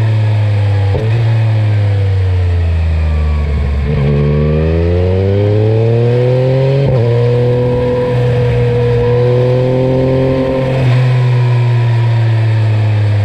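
Yamaha Tracer 9's three-cylinder engine through a carbon Akrapovic exhaust, on the move: the engine note drops for a few seconds, then climbs under throttle, breaks briefly about seven seconds in, holds fairly steady and eases off near the end.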